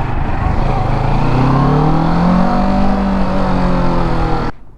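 Kawasaki Ninja 650 parallel-twin engine under the rider, with wind noise, pulling up in pitch as the bike accelerates, then holding and easing off. The sound cuts off abruptly near the end.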